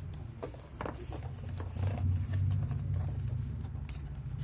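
Light clicks and rustles of hands handling a smartwatch box and its paperwork, over a steady low hum, with a sharper click at the very end.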